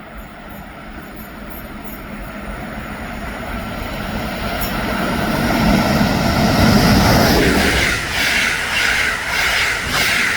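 A train approaching on the line, growing steadily louder to its loudest about six to seven seconds in, then its wheels clattering rhythmically over the rail joints as the cars pass.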